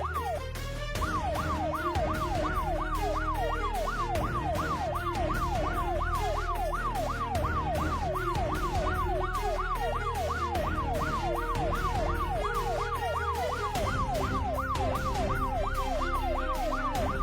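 Police siren in a fast yelp, sweeping up and down about three and a half times a second, over background music with a steady beat. The siren's sweep dips briefly about half a second in, then resumes.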